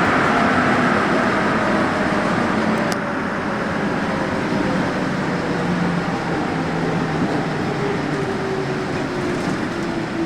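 Santiago Metro NS-74 rubber-tyred train running past, with a steady rolling rumble and a motor whine falling in pitch over the first few seconds.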